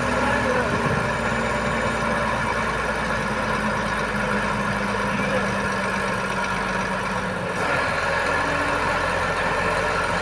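Boom truck's diesel engine running steadily at idle, its note shifting slightly about three-quarters of the way through.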